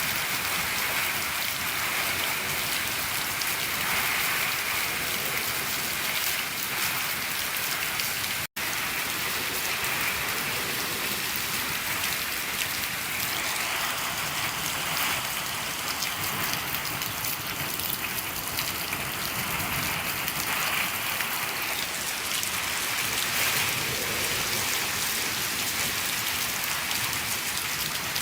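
Steady rain falling on a shed roof, an even dense patter of drops. The sound drops out for an instant about eight and a half seconds in.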